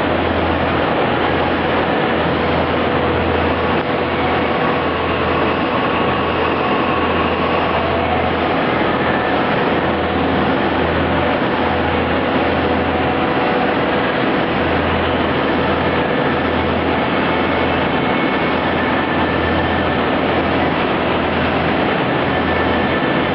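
CNC machine tool running: a loud, steady mechanical noise with a low hum that cuts in and out about once a second and faint steady whines above it.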